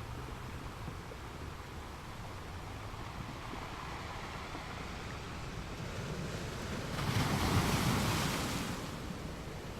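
Sea waves washing on the shore as a steady rush, with one wave breaking louder about seven seconds in and then fading.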